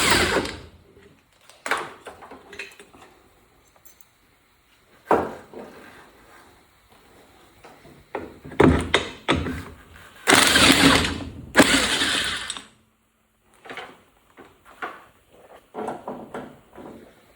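Impact wrench running in several short bursts with clicks in between, loosening the bolts on an ATV's rear wheel hub.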